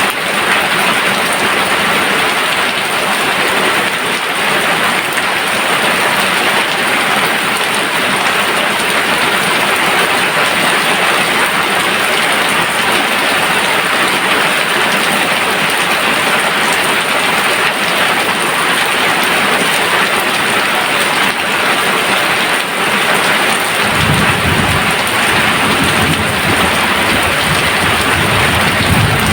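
Heavy rain pouring steadily onto surfaces, with a low roll of thunder rumbling in near the end.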